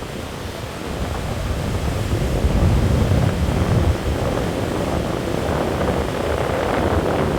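Strong wind buffeting the microphone in gusts, a rumbling rush that swells about two to four seconds in and stays loud.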